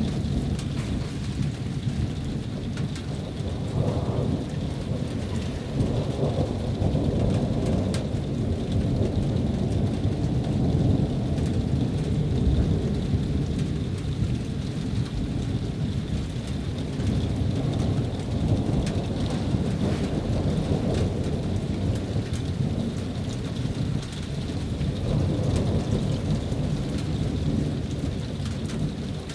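Thunderstorm: a low rumble of thunder swelling and easing continuously, with rain falling.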